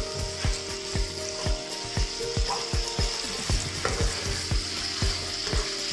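Chicken pieces and tomato slices sizzling as they fry in masala in a non-stick pan, stirred with a wooden spatula. Background music with a steady low beat, about three beats a second, runs underneath.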